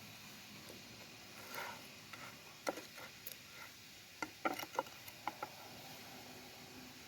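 Scattered light clicks, taps and small knocks, with a cluster of them about four to five seconds in, over a faint steady hiss.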